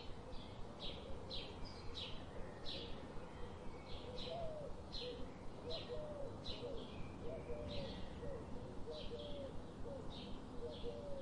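A bird chirping over and over, short high chirps about one and a half a second, over a steady low hiss; from about four seconds in, fainter lower wavering notes join.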